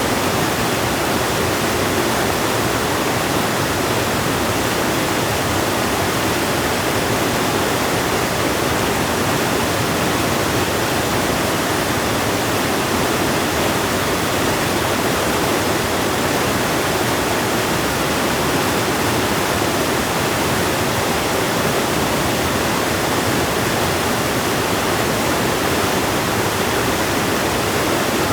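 River water rushing, a steady even roar with no breaks.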